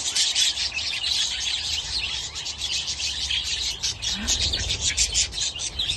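A flock of budgerigars chattering, with dense, rapid, high chirps and warbles throughout.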